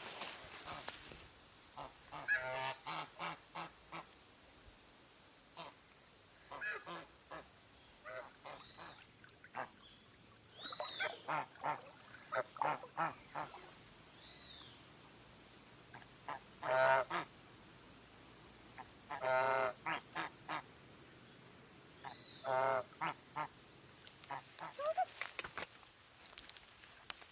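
Geese honking in repeated bursts of short calls, over a steady high-pitched whine that stops near the end.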